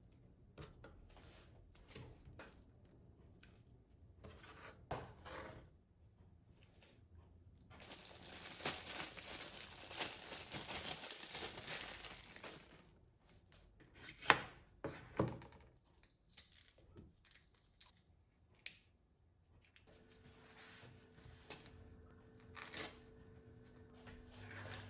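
Kitchen food-preparation handling: a long stretch of tearing with crinkling, scattered light knocks and two sharper knocks in the middle. A steady hum comes in near the end.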